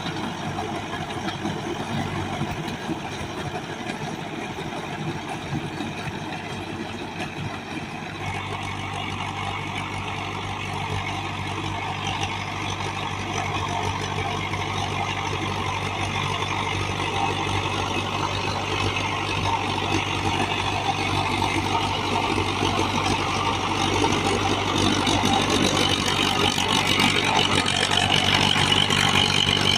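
A diesel tractor engine, an HMT engine fitted into a Sonalika 745, runs steadily. About eight seconds in, a steady low hum sets in, and the sound grows gradually louder toward the end.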